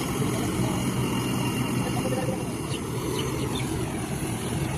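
Tracked combine harvester running with a steady engine drone.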